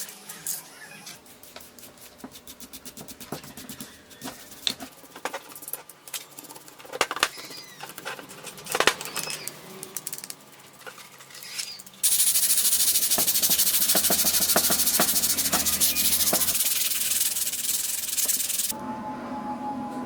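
Metal parts being handled, with scattered clicks and scrapes. About twelve seconds in, a loud steady hiss starts suddenly and runs for about six seconds before stopping.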